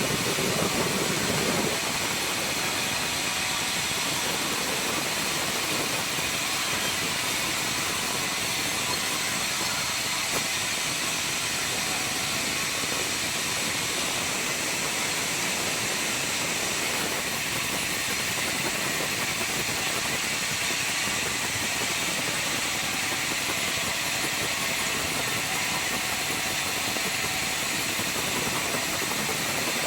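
Circular sawmill machine running steadily, a constant mechanical noise with a strong hiss and no break or change, a little heavier in the low end for the first couple of seconds.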